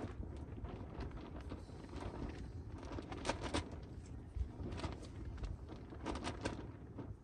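A steady low rumble with irregular short knocks and rustles scattered through it.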